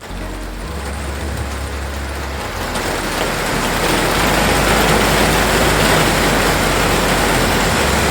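Heavy thunderstorm downpour and wind: a dense hiss that swells over the first few seconds and then holds steady and loud. Low bass notes of background music sound underneath.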